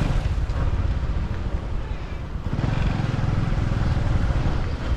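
Motorbike ride in city traffic: the engine running under a heavy, steady rumble of wind on the microphone, easing off briefly about two seconds in.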